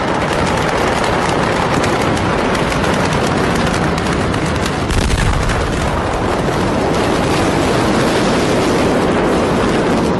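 Explosion and fire noise: rapid crackling and popping over a loud, steady rush, with a deep rumble about five seconds in.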